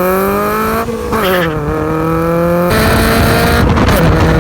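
Honda Civic with an HKS Hi-Power exhaust accelerating hard. The exhaust note climbs in pitch, drops about a second in at a gear change, then climbs again and holds high.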